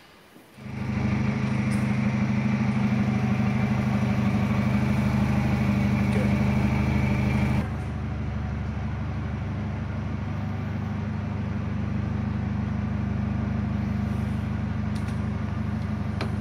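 A vehicle engine running steadily, starting about a second in; it drops to a lower, steadier level about halfway through.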